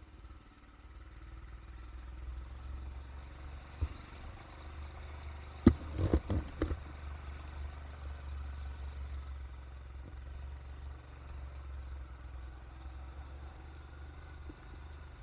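Steady low rumble of a vehicle on the move, with one knock and then a quick cluster of loud knocks and clatter about six seconds in.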